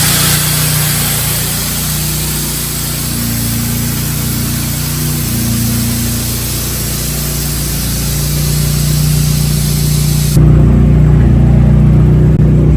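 A truck engine idles with its low tones shifting slightly in pitch, under a loud steady hiss that starts suddenly and cuts off about ten seconds in. After the hiss stops, the engine is louder.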